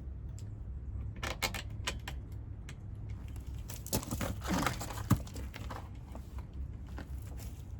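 Clicks and short rubbing noises from handling small engine parts and fuel line, with a brief falling squeak about four and a half seconds in and a sharp click just after, over a steady low hum.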